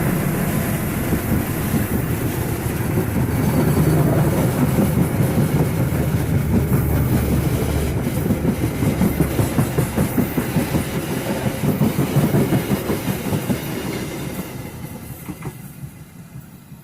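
Passenger coaches of a diesel-hauled train rolling past, wheels clacking steadily over the rail joints. The sound dies away over the last few seconds as the train moves off.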